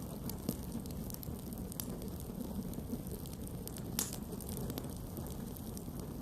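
Campfire burning with a steady low rumble of flames and scattered sharp crackles and pops of the wood, one louder pop about four seconds in.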